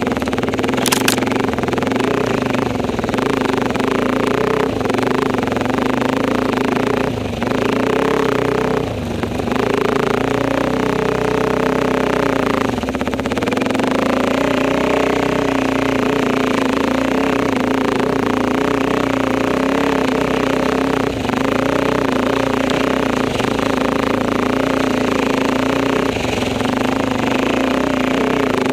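Enduro motorcycle engine running steadily under way, with brief dips and shifts in pitch several times as the throttle changes.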